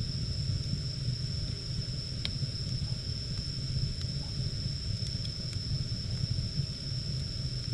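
Wood fire burning with a steady low roar and a few sharp crackles, the clearest about two seconds in. A thin, steady high-pitched whine sits above it.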